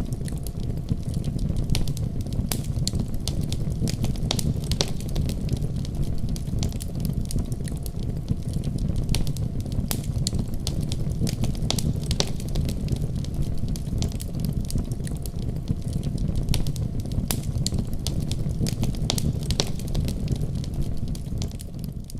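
Wood fire in a fireplace crackling: irregular sharp pops and snaps over a steady low rumble, fading down right at the end.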